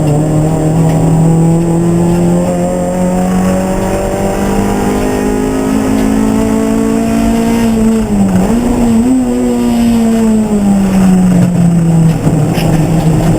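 Race car engine running hard, its pitch climbing slowly for several seconds, dipping sharply and recovering about eight seconds in, then falling away and starting to climb again near the end.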